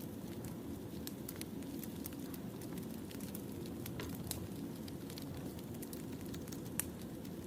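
Wood fire burning: a steady low rumble with many small sharp crackles and pops of burning firewood, one louder pop near the end.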